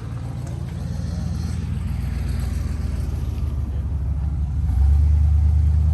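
Car engine running with a steady low rumble that gets louder about five seconds in.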